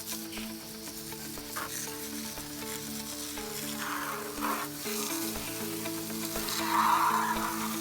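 Water from a hose spraying onto a vehicle's underbody and chassis rail, a steady hiss that swells louder about seven seconds in, over background music.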